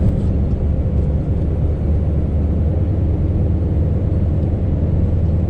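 Scania V8 truck engine running steadily while the lorry is driven, a low drone with road noise.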